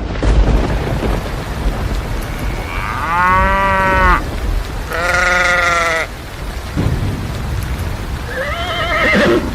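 Steady heavy rain with a deep rumble, over which something gives two long held calls a few seconds in and a shorter wavering call near the end.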